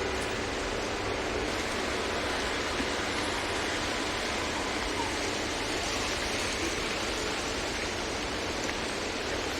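Steady hiss of rain falling on a wet city street, mixed with wet traffic noise.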